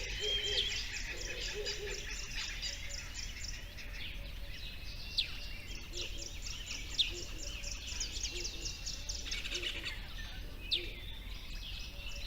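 Birds calling: a few sharp, loud chirps stand out over a dense, fast, even chirring chorus, with a steady low hum underneath.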